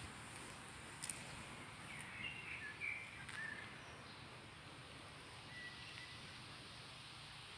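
Faint outdoor ambience among trees, with a few short bird chirps about two to three seconds in and one brief bird note near the six-second mark, plus a couple of faint clicks.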